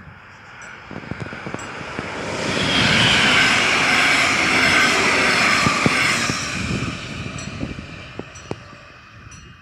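A train passing by: the rushing noise builds over a few seconds, peaks and fades away again, with sharp wheel clicks running through it.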